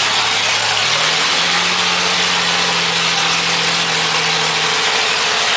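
Chevrolet Opala's naturally aspirated straight-six running, its throttle opened by hand at the carburettor about a second in, held at a higher steady speed, then let back down to idle near the end.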